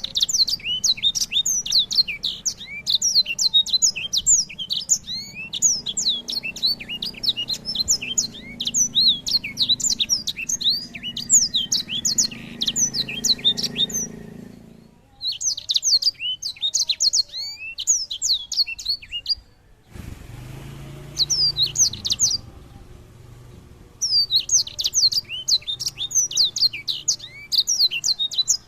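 A songbird singing a fast, rich song of rapid, high, sweeping chirps, in several long bouts broken by short pauses.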